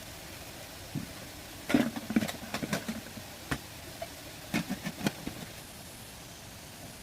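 Clusters of short knocks and clatters, from about a second in to three and a half seconds and again around four and a half to five seconds, over a steady hiss.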